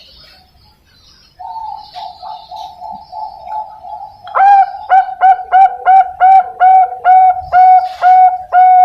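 Young Bangkok-type zebra dove (perkutut) singing: after a quiet second and a half, a soft rapid rolling trill for about three seconds, then a string of loud, clipped coos, each opening with a quick upward flick, about three a second.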